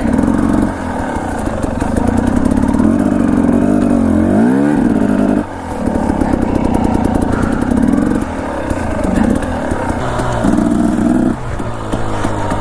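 Dirt bike engine running under constantly changing throttle on rough singletrack, the revs climbing and falling. There is a quick rev up and back down about four seconds in and a short back-off of the throttle around five and a half seconds.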